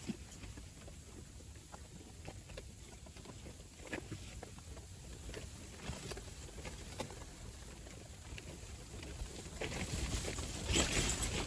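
Wind buffeting the microphone in a low rumble, with scattered light ticks and taps; a stronger gust swells up near the end.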